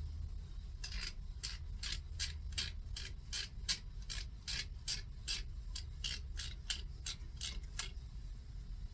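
Hand ratchet clicking in a quick even rhythm, about three to four clicks a second, as a camshaft gear bolt on a 350 Chevy small-block engine is backed out. The clicking starts about a second in and stops about a second before the end.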